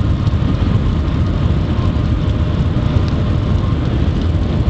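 Shanghai Maglev train cabin at high speed: a steady, loud low rumble with rushing air noise over it.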